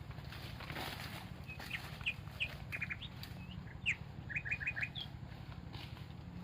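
Forest bird calling: a series of short high chirps and whistled notes, some in quick runs of three or four, over a steady low background rumble.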